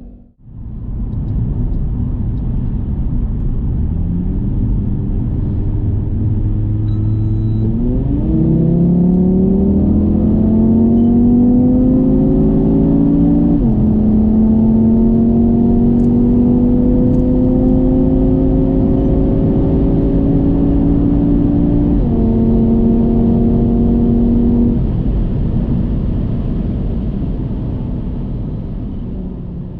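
Audi TT RS's turbocharged 2.5-litre five-cylinder engine accelerating hard at full throttle, its pitch climbing through the gears with two upshifts where the pitch drops sharply. About 25 seconds in, the throttle is lifted and the engine note falls away.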